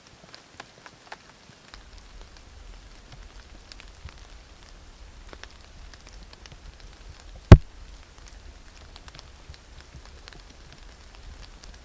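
Rain falling as scattered single drops, tapping one by one, with one loud sharp knock about halfway through. A faint low rumble runs underneath from about two seconds in.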